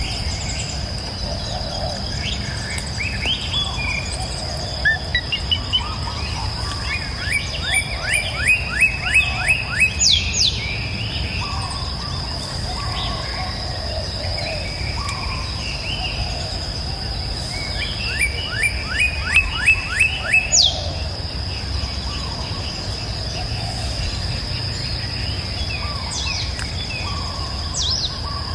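Forest birds chirping and singing. Twice, about ten seconds apart, one bird gives a song of about eight to ten quick rising notes. A steady high-pitched tone and a low rumble run underneath.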